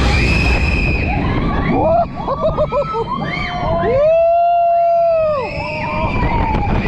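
Riders on the Voltron Nevera roller coaster screaming and whooping, several voices rising and falling in pitch with one long held scream about four seconds in, over the rumble and wind of the moving train.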